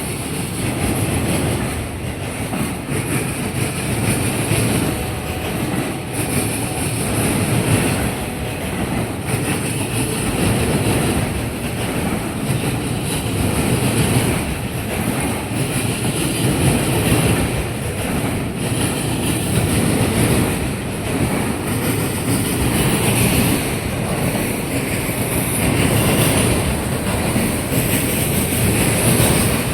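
Passing CSX freight train of autorack cars: a continuous rolling rumble, with the steel wheels clattering and banging over the diamond crossing.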